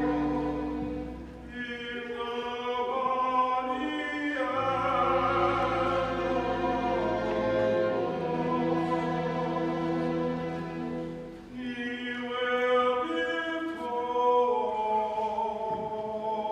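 Classical-style singing with instrumental accompaniment: long held notes in phrases, with two short breaks between phrases.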